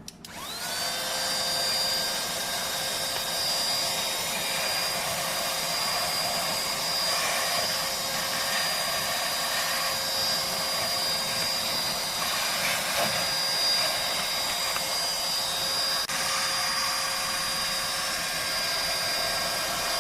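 Cordless handheld vacuum cleaner switched on. Its motor spins up in pitch within the first second, then runs at a steady high whine with a rush of air.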